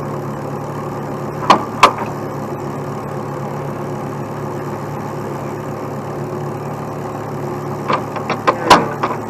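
Heavy truck engine idling steadily, with two sharp knocks about a second and a half in and a quick run of knocks near the end.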